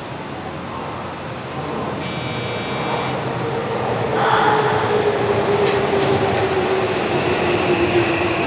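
Electric commuter train at a station platform: wheel and running noise with a motor whine that slowly falls in pitch, growing louder about four seconds in, with a brief high tone about two seconds in.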